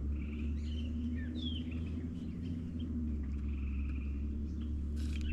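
Small birds chirping in short calls that glide up and down, over a steady low hum. A brief clatter near the end.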